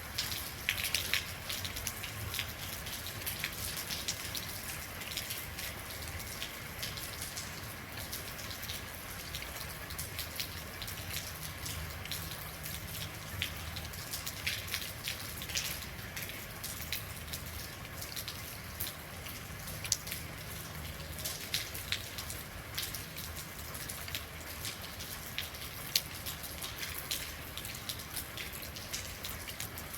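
Steady rain, with many individual drops ticking and dripping on a hard surface over a constant hiss.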